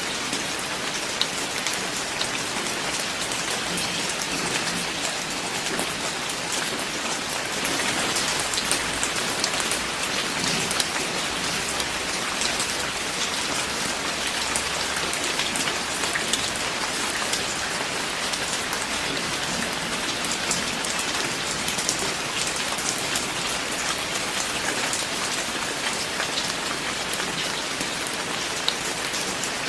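Steady rain falling, an even hiss with many individual drops ticking close by.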